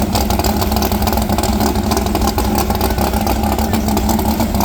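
Drag car's engine idling, loud and steady with a fast pulsing beat.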